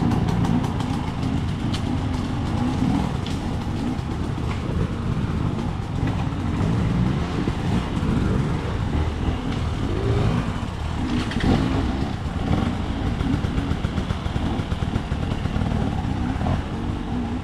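Dirt bike engine running under way, its revs rising and falling continually.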